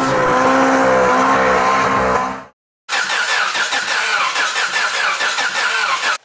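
Turbocharged car engine heard in two short cuts. First it runs with a steady, slightly wavering pitch and stops abruptly. After a brief silence it runs loud and rough with a rapid pulsing, about four to five pulses a second.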